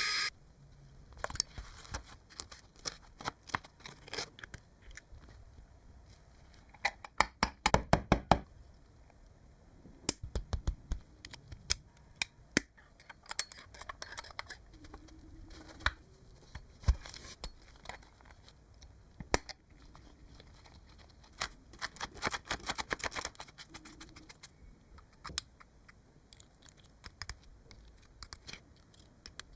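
Irregular clicks, taps and knocks of small hard parts being handled and fitted together, with quick runs of clicks about a third of the way in and again near the end.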